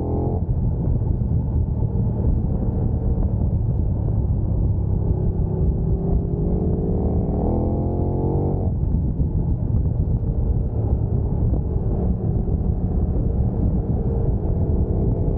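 Sport motorcycle engine under hard acceleration, heard over a heavy low rumble. Its pitch climbs steadily for about eight seconds, drops suddenly at an upshift, then climbs again.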